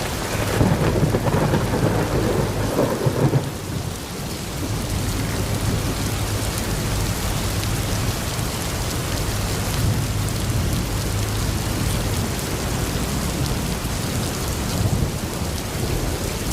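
Steady rain falling, with a rumble of thunder over the first few seconds.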